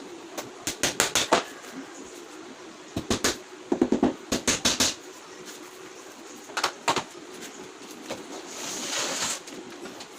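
Sharp taps and knocks in quick clusters, from flight case carpentry and assembly, over a faint steady hum, with a short hissing scrape near the end.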